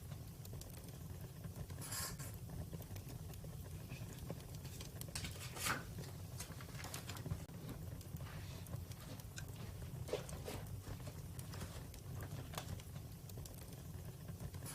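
Campfire crackling: irregular pops and snaps, a few of them louder, over a steady low rumble of the burning fire.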